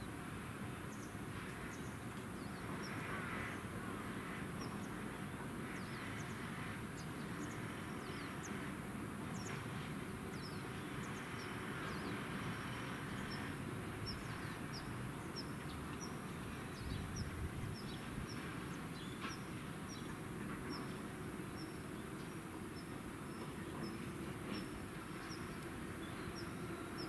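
Small birds chirping over and over, short high calls at a fairly even pace that grow more regular about halfway through, over a steady low rumble.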